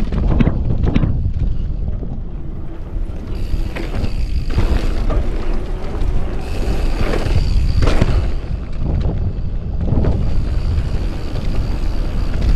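Heavy wind rumble on the microphone as a mountain bike is ridden down a trail, with the bike clattering sharply over bumps several times.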